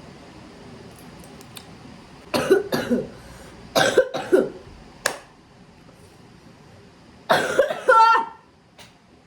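A woman coughing in short bouts: two coughs about two seconds in, two or three more around four seconds, and one longer cough near the end, with the sound of a cold and cough.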